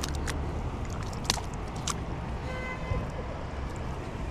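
Steady low rush of river water and wind on the microphone, with a few sharp clicks.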